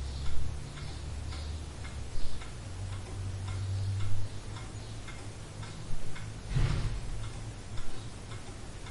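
Clock ticking steadily, about two ticks a second, over a low steady room hum. Near two-thirds of the way through there is a brief, louder noise.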